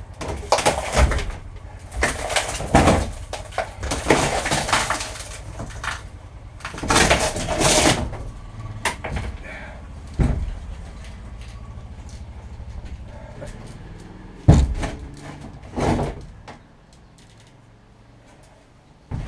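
A fibreglass boat floor panel being pried and pulled up: rough bursts of scraping and cracking over the first eight seconds or so, then three separate knocks.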